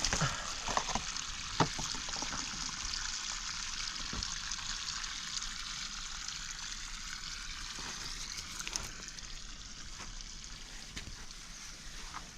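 Running water trickling steadily, with a few sharp clicks and knocks in the first couple of seconds.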